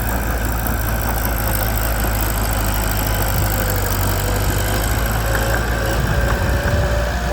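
Mitsubishi BD2 bulldozer's diesel engine running steadily with a low drone, which shifts slightly about six seconds in.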